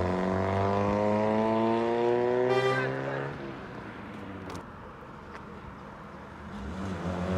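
Volkswagen Citi Golf engine running just after being push-started on a flat battery, its pitch rising steadily as the car pulls away for about three seconds before the sound falls away. The engine sound comes back louder near the end.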